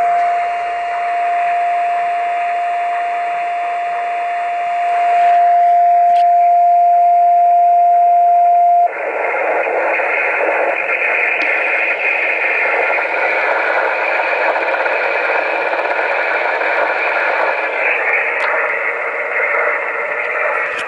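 Radio receiver playing the Si5351A signal generator's carrier as a steady single beat tone over band hiss. About nine seconds in, the tone cuts off and only the receiver's hiss remains, louder.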